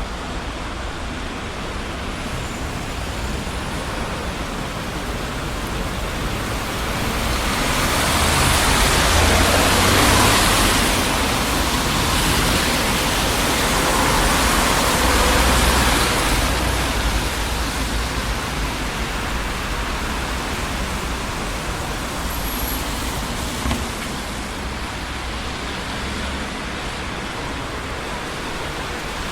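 Busy city street traffic: a steady wash of tyre and engine noise that swells twice between about 7 and 17 seconds in as vehicles pass close by, then eases back.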